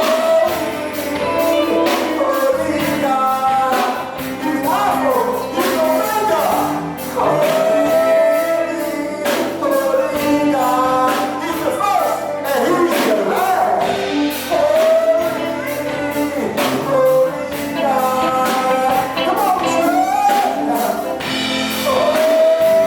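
Live gospel music: singing over a band with steady percussion, including tambourine.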